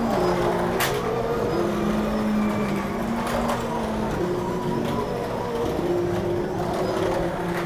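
Electric motors of 1/24 scale slot cars whining as they run around the track, the pitch shifting up and down with speed, with a few sharp clicks.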